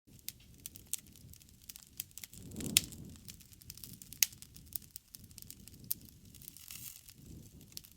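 Wood campfire crackling: many sharp pops and snaps over a low, uneven rumble of flames, with the loudest pop about three seconds in.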